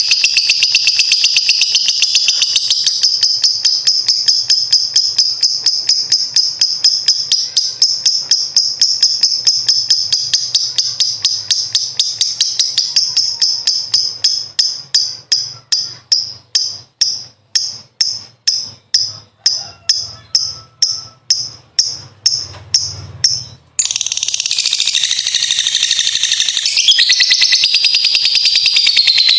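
Lovebird's long shrill chattering trill ('ngekek panjang'), a rapid run of high notes. About two-thirds of the way through it slows into separate notes, roughly two a second, breaks off for a moment, then resumes as a dense unbroken chatter.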